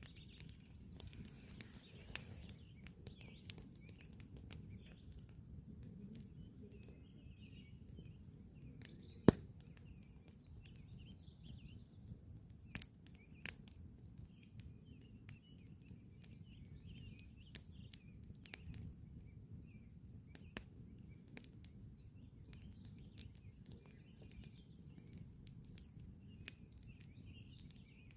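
Campfire crackling with scattered sharp pops, one much louder pop about nine seconds in, over a low steady rumble, while birds chirp and twitter faintly.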